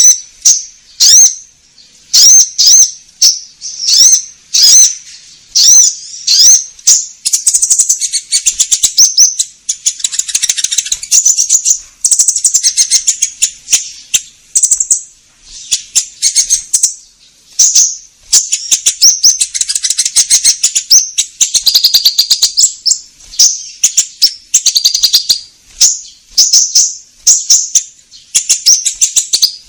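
A konin songbird's lure song: loud, sharp high-pitched chirps and fast, buzzy rattling trills, given in quick phrases with brief pauses between them, the kind of call played to draw wild birds in.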